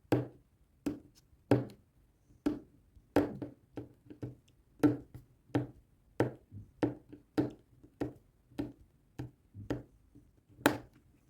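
Diamond-painting drill pen tapping resin rhinestones one by one onto the adhesive canvas: sharp little taps at an uneven pace of about two a second.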